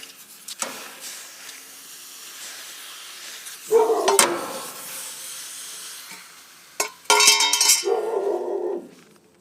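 Brazing torch flame hissing steadily on copper refrigerant tubing, with two louder, pitched sounds about four seconds in and again from about seven seconds in until near the end.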